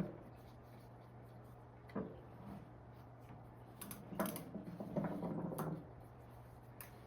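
Quiet handling noises from gloved hands working grease into a hub motor's gear teeth: a light click about two seconds in, then a few clicks and a short stretch of rubbing and rustling, over a faint steady hum.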